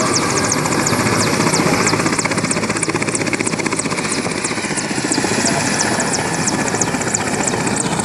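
Helicopter rotor running loud and close, a steady rapid chop of the blades over a heavy rush of noise.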